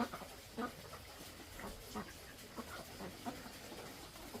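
Chickens clucking in short separate calls, a few each second, fairly faint.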